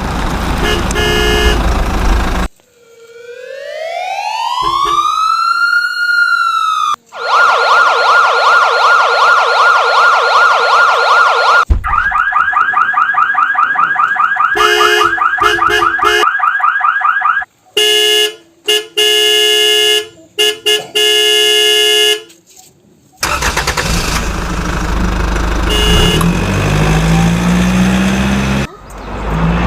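A string of vehicle sound effects: engine noise, then a single siren swoop that rises and falls, a fast warbling siren, a second pulsing siren, a run of short electronic beeps with gaps between them, and engine noise again for the last several seconds.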